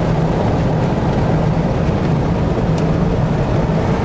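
Steady engine drone and road noise heard from inside a truck's cab while cruising on the highway.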